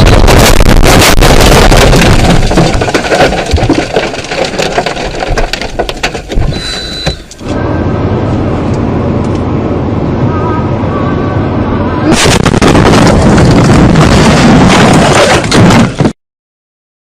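Dashcam recording of a car crash, so loud the audio distorts, with a run of bangs and crunching impacts. Partway through, the sound cuts to a steadier rumble of road and engine noise. It grows loud again before stopping dead.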